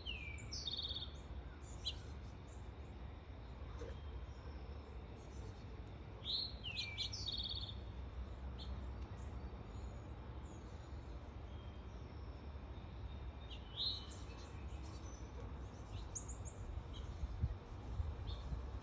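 Finches and sparrows chirping and calling in short, scattered calls, several of them quick downward-sliding notes, over a steady low rumble.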